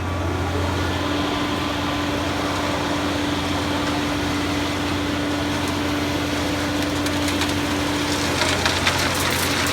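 Machinery engine running steadily: a low hum with a steady higher whine that drops out about eight seconds in, and a few light knocks near the end.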